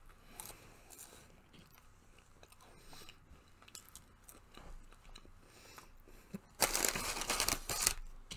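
Close-miked chewing of fast-food fries and chicken nuggets: soft, wet mouth clicks and crunches. About six and a half seconds in, a much louder crackling lasts about a second and a half.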